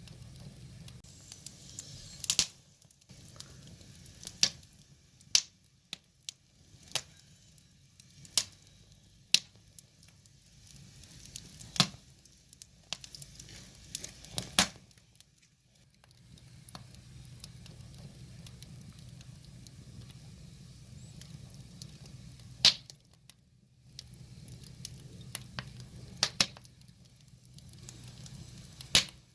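Firewood burning: irregular sharp crackles and pops from the logs, about fifteen in all, over a low steady rumble of the flames.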